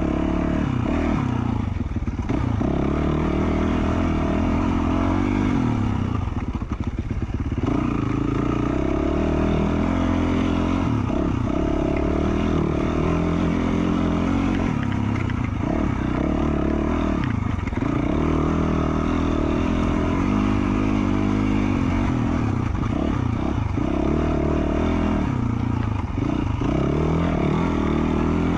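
Yamaha YZ450F dirt bike's single-cylinder four-stroke engine with an FMF Q4 slip-on exhaust, under way on a trail: the revs rise and fall over and over as the throttle is worked through the gears, with a few brief off-throttle dips.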